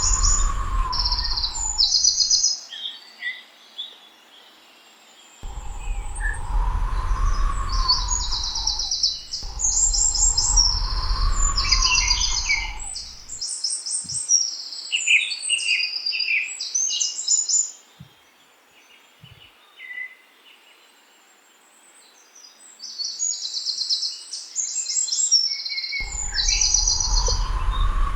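Several small songbirds chirping and trilling in quick, high-pitched phrases. Three or four times, a rushing noise with a deep rumble comes in for a few seconds and stops abruptly.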